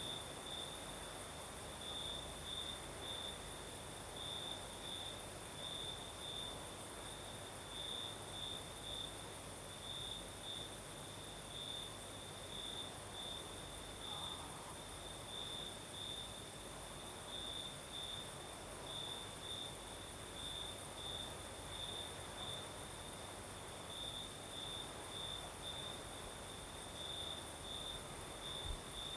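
Crickets chirping at night: a string of short chirps on one high note, in uneven runs, over a steady higher-pitched insect trill and a soft even hiss of breeze.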